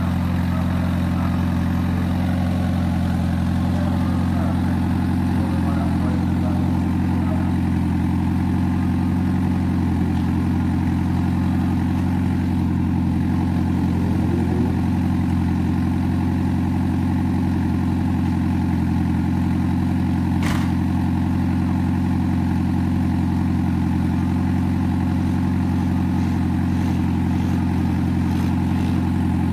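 Honda Civic EG hatchback drag car's engine idling steadily, its pitch holding constant throughout.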